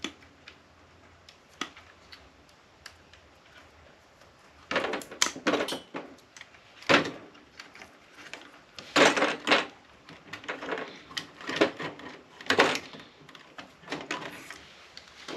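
Scattered clicks, snaps and clatter of hand tools and metal parts being worked while wires are pulled loose inside an APC battery backup unit being taken apart for scrap. It is mostly quiet for the first few seconds, then comes in irregular clusters of sharp knocks.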